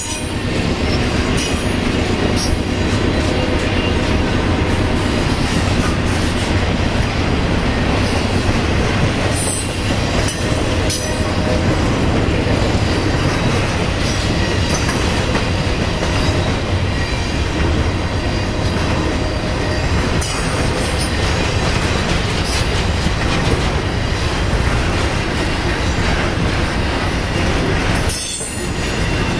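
BNSF intermodal freight train rolling past close by: a steady, loud rumble of wheels on rail, easing briefly near the end.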